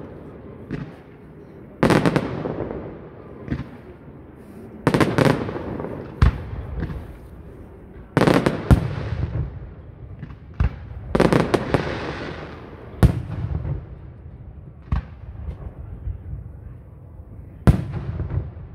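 Aerial firework shells bursting in the sky: about nine sharp bangs, one to three seconds apart, some trailing off over a second or two.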